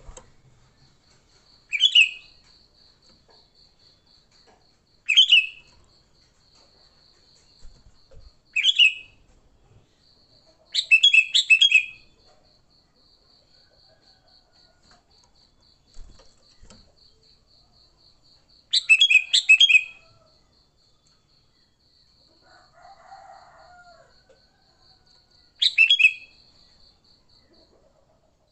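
Sooty-headed bulbul calling: short, loud, bubbly call notes every few seconds, six in all, two of them longer chattering runs, in the excited 'fighting' style used to lure other bulbuls. A faint, steady, rapid pulsing trill runs underneath.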